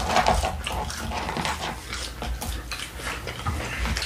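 Close-miked chewing and mouth sounds of people eating fried food: a steady run of small wet clicks and crunches.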